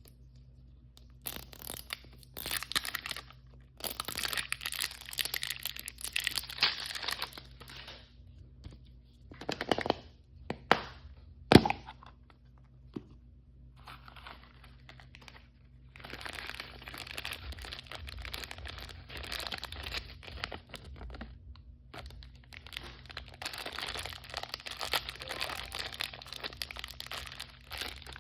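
Toy packaging being torn open and crinkled by hand, in spells of crackling with a few sharp snaps just before halfway.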